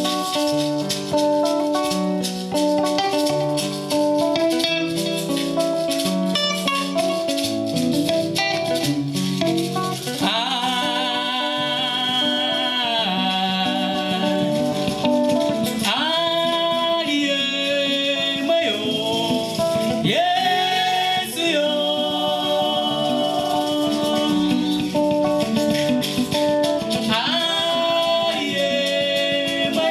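Live band music: plucked guitar lines over a steady shaker rattle. A voice comes in singing long phrases from about ten seconds in.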